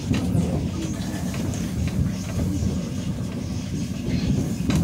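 Steady low rumble of a moving train heard from inside a passenger car, its wheels running on the rails, with one sharp knock near the end.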